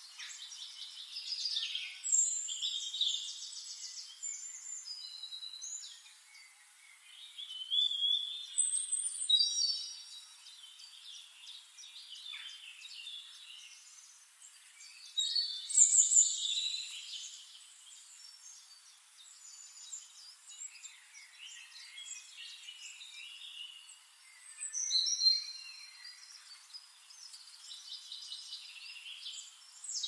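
Several songbirds singing and chirping together, short trills and high whistled phrases overlapping over a faint hiss, with louder bursts of song four or five times.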